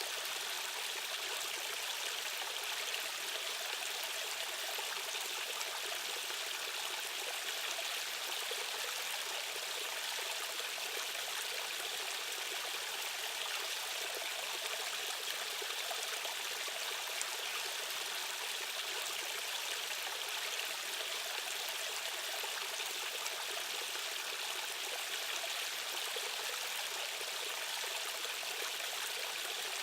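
Fast-flowing stream water rushing steadily, an even, hissing wash of sound with little low rumble.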